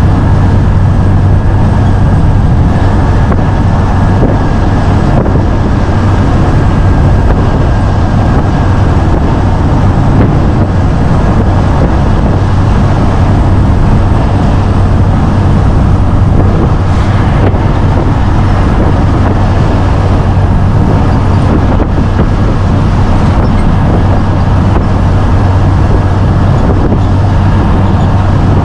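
Truck driving at a steady speed: a constant low engine drone with road and tyre noise.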